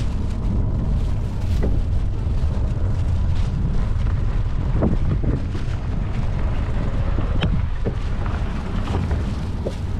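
Wind buffeting an action camera's microphone on the move: a loud, steady low rumble with a few faint ticks, ending in an abrupt cut.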